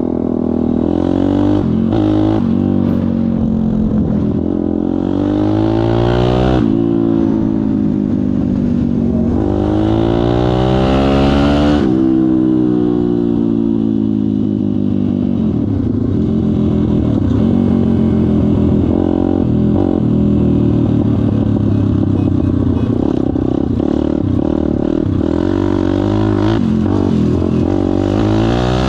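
Kayo Pro pit bike's single-cylinder four-stroke engine being ridden, revving up and easing off: its pitch climbs and drops several times over the first twelve seconds, then runs steadier with smaller rises and dips.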